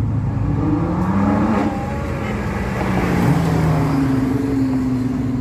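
A car engine running at low revs, its pitch rising a little about a second in and then easing and falling.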